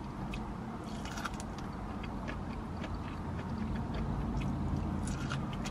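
A person biting and chewing street corn on the cob, with small scattered crunching clicks, over a steady low hum.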